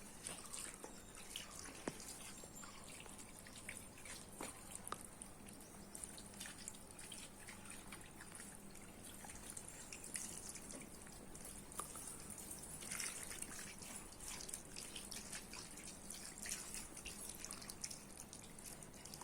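Faint ambience: scattered light clicks and drip-like ticks over a steady high hiss.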